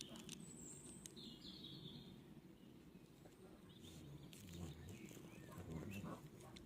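Quiet outdoor background: a faint low rumble with a few brief distant bird chirps about a second in, and a few faint clicks.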